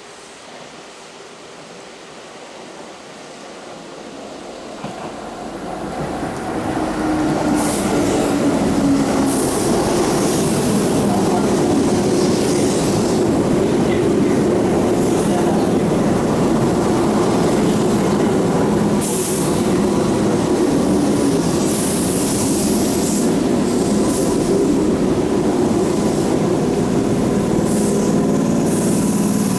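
Keihan 2400-series electric commuter train pulling into the station, growing louder over the first several seconds as it nears. It then runs past at a steady loud level with a rumble of wheels and running gear and brief high hissing sounds here and there. A steady hiss of rain is heard at first.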